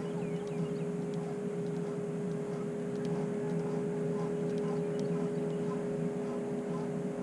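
Steady motor hum with several even tones held at a constant pitch, and faint scattered ticks above it.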